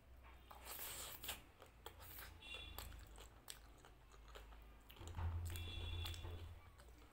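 Close-miked chewing of a mouthful of rice mixed with crispy fried potato strands, with irregular crunches and wet mouth sounds. A low hum runs underneath and grows louder about five seconds in.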